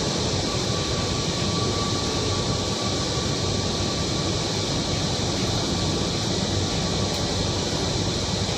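Steady interior ambience of a Kochi Metro carriage, an even hum and rumble with a faint steady whine. It heard as the train stands at a station between announcements.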